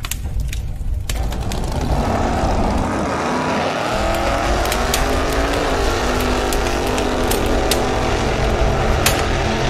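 A car engine revving up, then running at a steady pitch, with scattered clicks.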